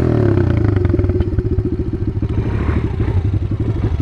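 Small single-cylinder four-stroke engine idling steadily at the start line, with a fast even firing pulse.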